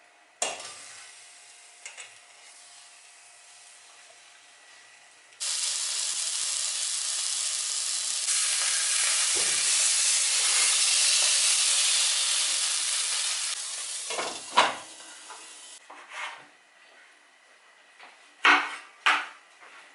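A thick piece of tuna searing in hot oil in a stainless frying pan: a loud, steady sizzle lasting about ten seconds. There is a knock as it goes in near the start, and a few sharp knife chops on a wooden cutting board near the end.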